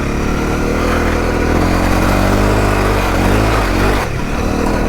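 Honda CRF250L's single-cylinder four-stroke engine running under throttle as the bike climbs off-road. The engine note eases off about four seconds in.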